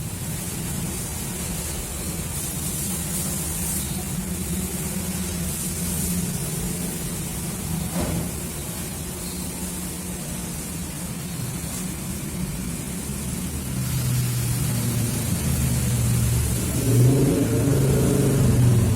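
A motor running steadily with a low hum, which grows louder and fuller about fourteen seconds in, under a faint hiss.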